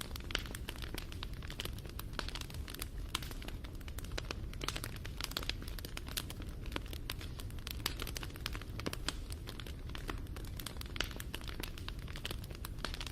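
Wood fire crackling and popping steadily: dense, irregular sharp snaps over a low rumble of the burning fire.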